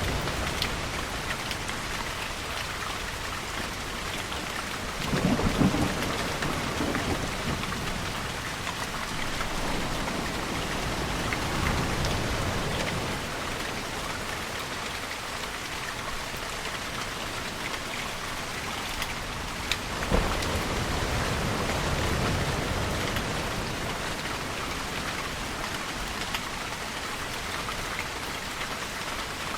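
Steady heavy rain with thunder rumbling low several times, and one sharper, louder thunderclap about twenty seconds in.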